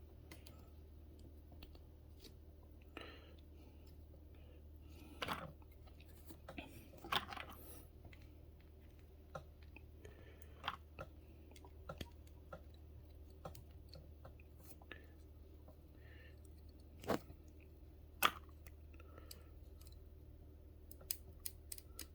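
Parts of a 1:200 scale model airliner being handled and fitted by hand: scattered faint clicks and short rustles, with two sharper clicks a little over a second apart in the latter part, over a steady low hum.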